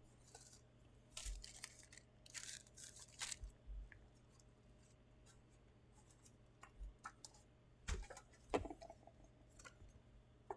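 Faint rustling and tearing of packaging being handled in short bursts, with two sharp clicks near the end.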